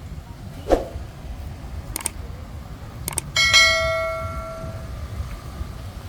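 A single bright metallic bell strike about halfway in, ringing out and fading over about a second and a half, preceded by a few sharp clicks, over a steady low street rumble.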